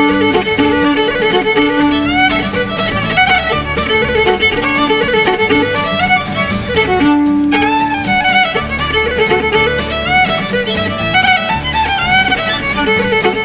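Fiddle playing a fast Irish dance tune over steady rhythmic accompaniment, the melody running in quick, unbroken notes.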